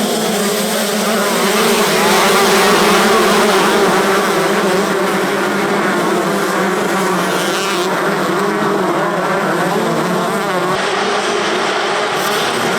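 Several 125 cc two-stroke motocross bikes racing, their engines revving up and down with overlapping, wavering pitches.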